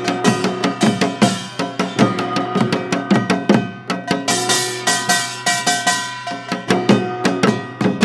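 Live music with drums and percussion: rapid, dense drum strikes over sustained pitched tones.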